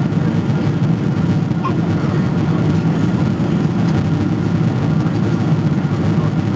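Steady low rumble of a Boeing 777-300ER's engines and airflow during its landing.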